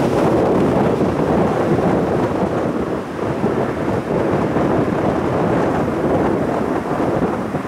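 Strong wind buffeting the microphone: a loud, gusting rumble that rises and falls with no steady tone.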